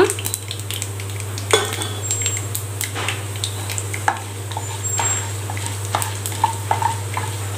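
Mustard seeds, urad dal and chana dal sizzling in hot oil in a nonstick kadai, with scattered sharp pops, while a wooden spatula stirs and scrapes against the pan. A steady low hum runs underneath.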